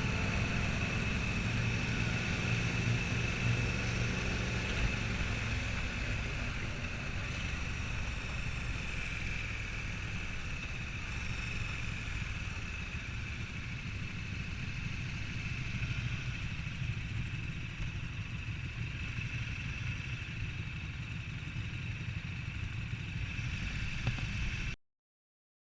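Motorcycle engines running steadily with a low rumble, cutting off suddenly near the end.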